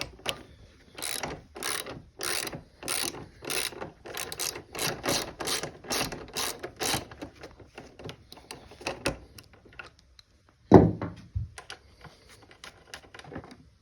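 Socket ratchet clicking in repeated strokes, about two a second, as a bolt is worked loose on a dirt bike's side panel, then lighter quicker clicks. A single loud knock near the end.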